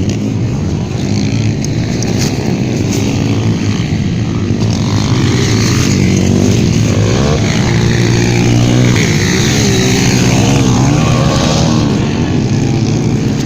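150cc motocross motorcycles racing, their engines revving up and down with the gear changes, several overlapping, swelling louder in the middle and easing off near the end.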